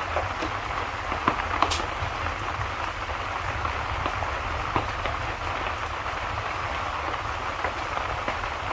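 Steady rain with a low rumble underneath, and a few sharp crackling pops from a wood fire now and then, the strongest about a second and a half in.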